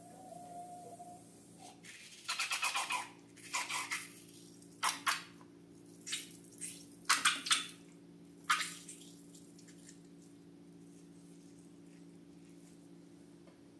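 Slime being squeezed and squished by hand: about six short, wet, crackling squelches between about two and nine seconds in, over a steady low hum.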